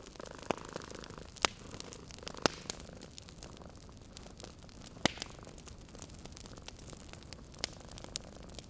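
Wood fire crackling in a fireplace, with a steady low hiss and scattered sharp pops about every one to two seconds. A cat purrs softly in the first second or so.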